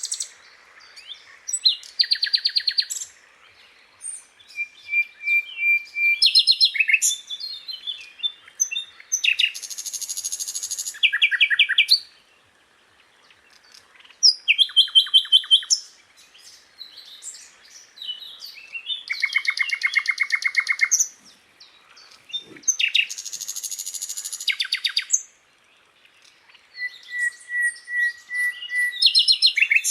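Sikatan londo flycatcher song: a run of separate phrases of fast, high chirping trills, mixed with short steady whistles, with brief pauses between phrases.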